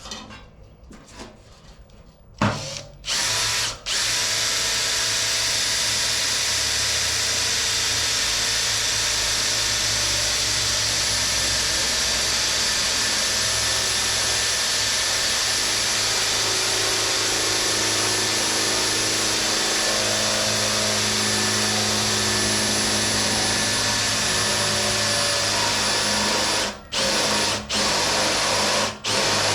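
Electric drill running a 3 mm bit through sheet steel, widening small holes. It starts a couple of seconds in and runs steadily, with a brief stop just after it starts and several short stops near the end.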